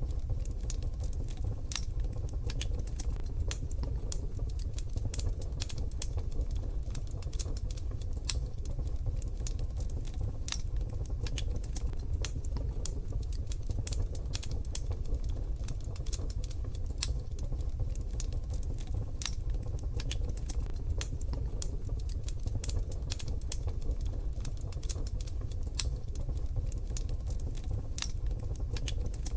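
Wood fire crackling in a wood-burning stove: frequent, irregular sharp snaps and pops over a steady low rumble.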